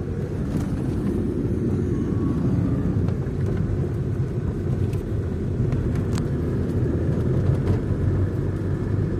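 Car driving: a steady low road and engine rumble, with a few faint clicks partway through.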